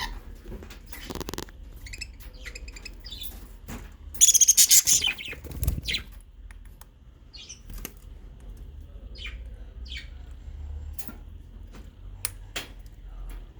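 Budgerigars chirping in short calls, with one loud harsh call lasting about a second, some four seconds in, and scattered light clicks.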